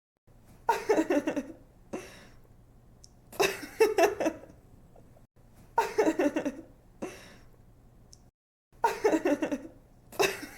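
A young woman laughing in short bursts of quick 'ha-ha' pulses, a new burst every two to three seconds, with a short breath after some of them. A faint low hum sits under the laughs.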